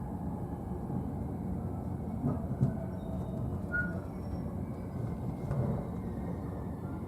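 JR East E531 series electric train running, heard from the upper deck of a bilevel car: a steady rumble of wheels on rail, with a couple of louder knocks about two and a half seconds in.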